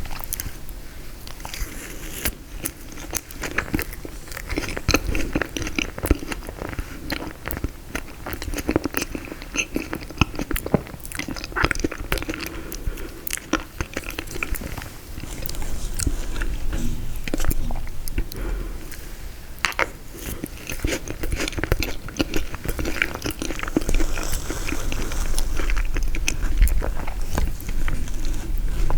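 Close-miked chewing and biting of a frozen tiramisu, with many small sharp crunches of the frozen cake throughout.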